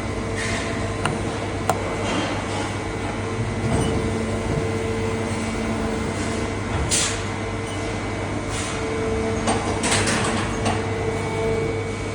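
Haas VM-3 CNC mill's spindle running through its warm-up cycle: a steady machine hum with a constant whine over it. A few short hisses come through, about seven and ten seconds in.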